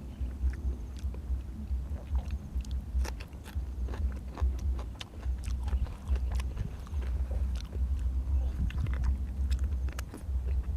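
Close-miked chewing and mouth sounds of a person eating, many short wet clicks and crunches over a heavy low pulsing thump.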